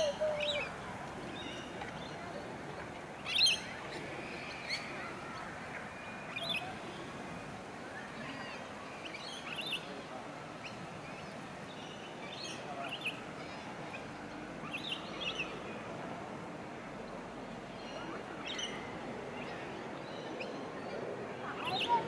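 Wild birds chirping: short, high calls every second or two, the loudest about three and a half seconds in, over a faint steady outdoor background.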